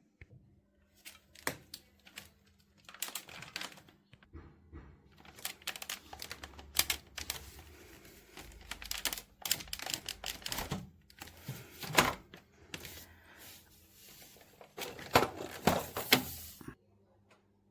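Irregular clicks, knocks and rustling of objects being handled, with some sharper snaps. The sound stops about a second before the end.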